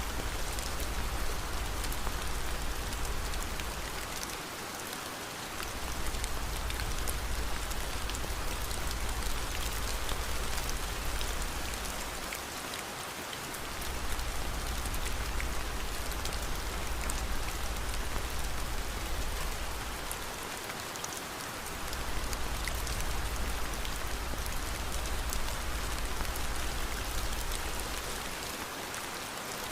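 Steady rain with many faint, scattered crackles, which the mix offers as a fireplace. A low rumble underneath drops out briefly about every eight seconds.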